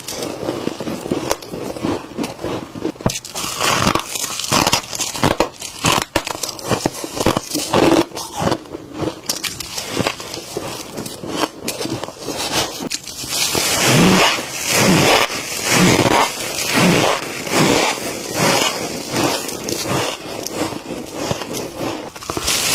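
Humidifier frost being bitten and chewed close to the microphone, with crisp crunching and crackling. The crunches come irregularly at first; from a little past halfway they settle into a steady chewing rhythm of roughly one loud crunch a second.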